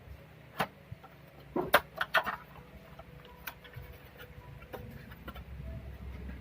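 Scattered clicks and knocks of parts being handled, loudest in a quick cluster about two seconds in, over a low steady hum.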